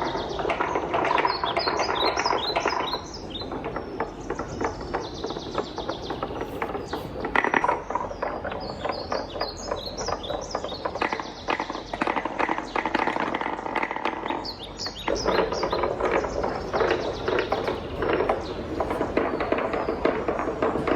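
Wooden balls rolling and clattering down a wooden marble run: a dense, fast stream of small knocks and rattles, with short runs of quick high clicks.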